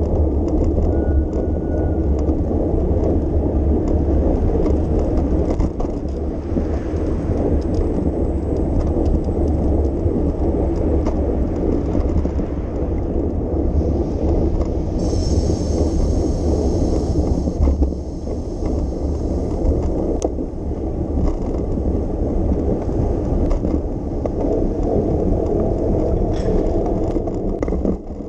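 Bicycle riding along city streets: steady tyre and road rumble with wind buffeting the microphone. A high hiss comes in for a few seconds around the middle.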